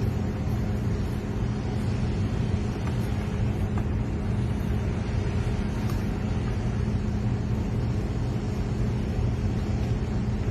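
A machine running with a steady low hum under an even rushing noise, unchanging until it cuts off.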